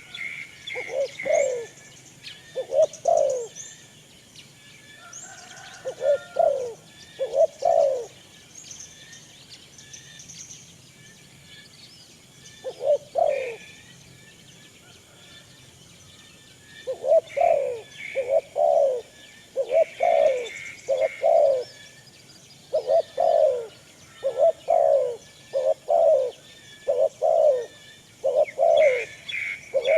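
Pigeons cooing in short, repeated low calls, with smaller birds chirping higher and fainter. There is a lull in the cooing through the middle, then the calls come steadily through the second half.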